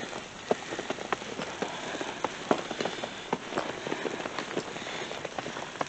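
Wet snow pattering close to the microphone: irregular light ticks over a steady hiss.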